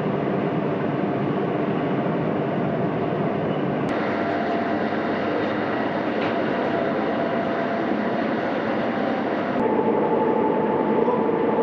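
Steady rumble of a train moving the Soyuz rocket on its rail transporter out to the launch pad. The sound shifts abruptly about 4 and 10 seconds in.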